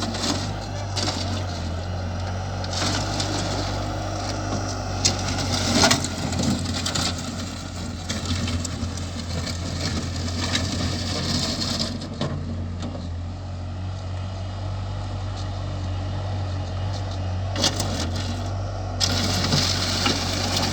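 Skid-steer loader engine running steadily while the machine works over stones, with scattered crunching and knocking of rock.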